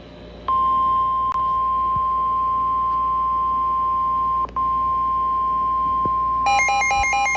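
NOAA Weather Radio warning alarm tone: a single steady tone near 1 kHz that starts about half a second in and breaks off briefly around four and a half seconds. About six and a half seconds in, a chirping run of rapidly alternating higher electronic tones starts over it.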